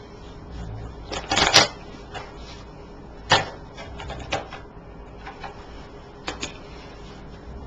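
A deck of tarot cards being handled and shuffled: a short cluster of crisp card rustles and taps about a second and a half in, then single sharp taps about three and a half, four and a half and six seconds in.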